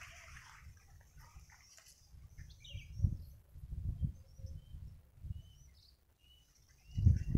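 Small birds chirping with short, high calls, over a few low thumps, the loudest near the end.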